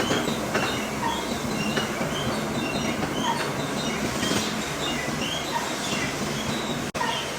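Metalworking machinery running steadily, with short high metallic squeaks and chirps scattered over the noise. The sound cuts out abruptly for an instant near the end.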